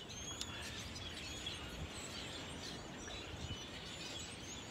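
Faint outdoor background with small birds chirping now and then.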